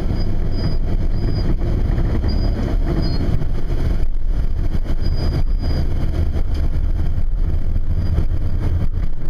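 Cab interior of a 1995 Ford E-350 box truck driving off: the engine running with road noise, a steady low rumble.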